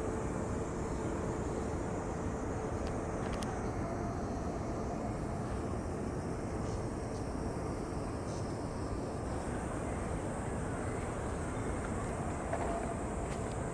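Steady low outdoor rumble, with a faint, high, steady cicada drone behind it.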